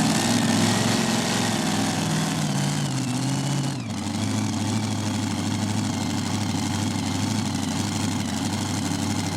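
Engine idling, its pitch wavering over the first few seconds, then settling to a steady idle after a brief dip about four seconds in.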